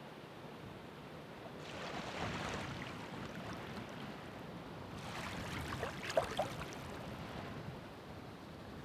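Ocean waves breaking and washing in, a steady hiss of surf with two waves swelling up, one about one and a half seconds in and a second about five seconds in, which gives a few sharp splashes as it breaks.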